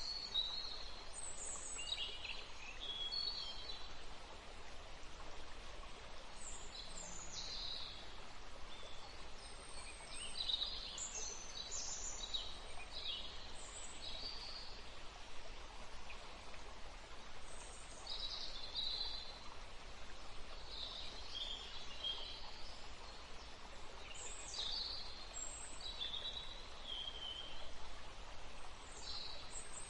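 Small songbirds calling and singing in quick, high chirps and trills, one after another, over a steady background hiss of natural ambience.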